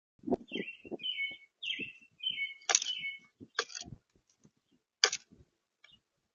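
A bird chirping in a quick series of short, repeated calls for the first three seconds or so, over soft low knocks. A few sharp clicks come near the middle and again about five seconds in.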